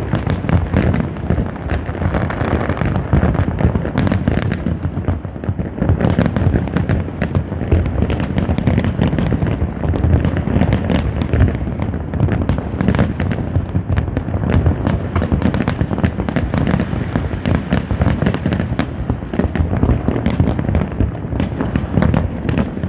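Fireworks show in full swing: a dense, continuous barrage of shell bursts and crackling, many sharp cracks over a steady low rumble of booms.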